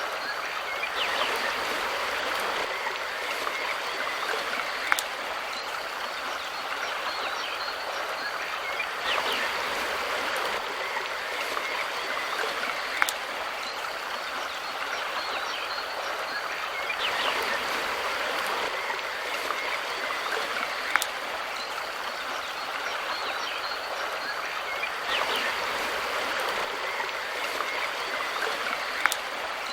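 Mountain river running steadily, an even rushing of water that swells gently every few seconds. A sharp click recurs about every eight seconds.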